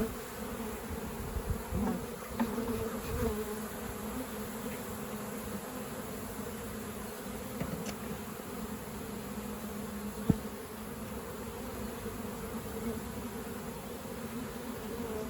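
A mass of honeybees buzzing steadily in a continuous hum as they are driven out of a swarm trap. A single sharp knock about ten seconds in.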